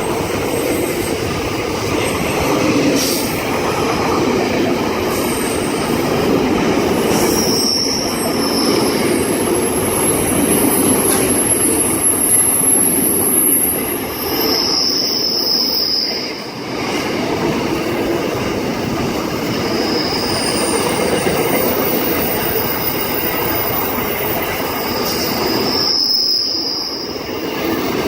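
Long freight train rolling past, its wagons rumbling steadily over the rails. High-pitched wheel squeals come and go, the most prominent about halfway through and again near the end.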